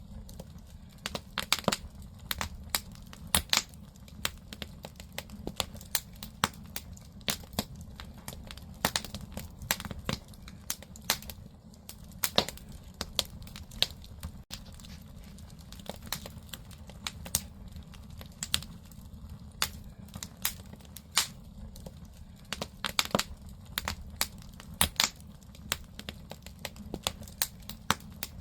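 Firewood burning in a traditional Korean agungi firebox: irregular sharp crackles and pops over a steady low rumble of the fire.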